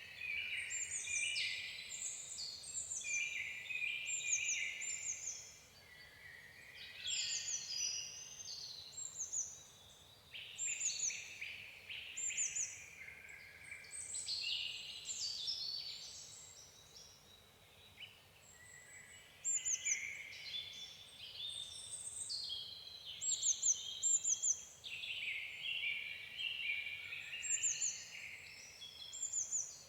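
Soft birdsong: phrases of short chirps and quick downward-sweeping whistles with brief pauses between them, and a lull of a few seconds a little past the middle.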